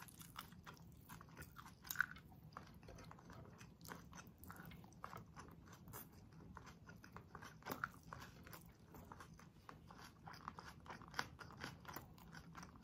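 Faint, close-up chewing of a mouthful of rice and sisig, with many soft mouth clicks and a sharper click about two seconds in and another near eight seconds.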